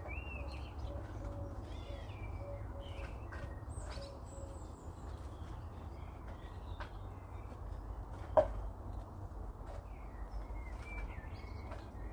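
Wild birds chirping and trilling in the background over a steady low rumble, with a single sharp knock about eight seconds in.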